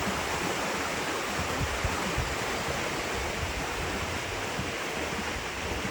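Rushing water of a mountain creek running over rocks, a steady even rush.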